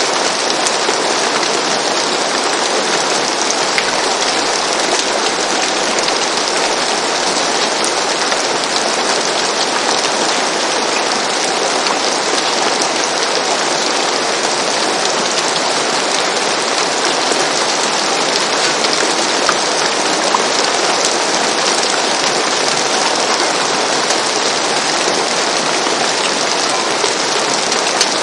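Steady rain falling on a roof, an even hiss of dense drops with small scattered ticks of individual raindrops.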